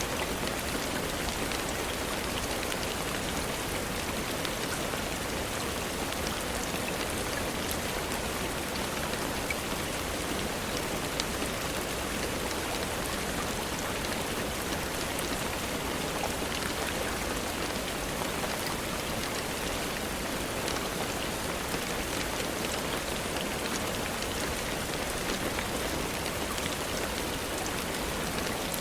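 Steady rainfall, an even hiss of falling rain with scattered small clicks of drops.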